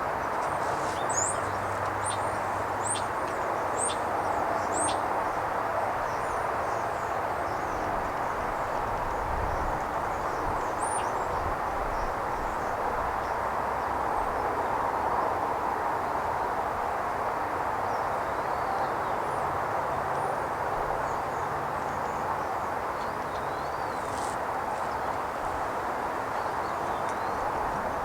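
Outdoor ambience: a steady hiss with small birds chirping in short, high calls, several in the first five seconds and a few scattered later.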